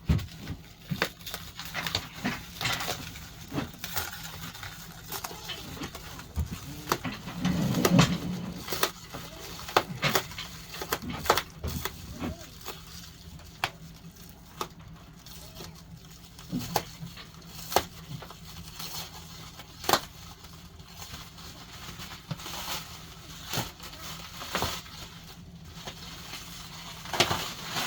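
Plastic wrapping crackling, rustling and tearing in irregular bursts as it is cut and pulled off a rebuilt engine, with a louder rustle about eight seconds in.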